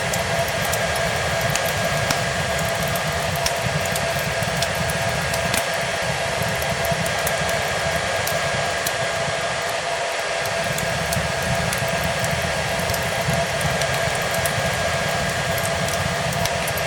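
Hair dryer running steadily, an even rush of air with a constant motor whine, over a wood fire with scattered small crackles.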